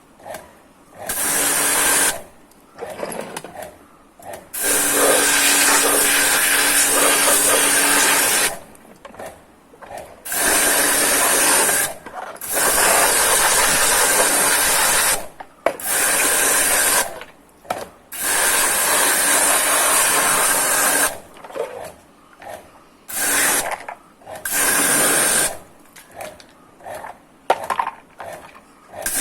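Water jet from a pressure washer spraying the sawdust off a Stihl MS460 chainsaw, in a hiss that starts and stops about eight times in bursts of one to four seconds, with a steady motor hum under the longer bursts.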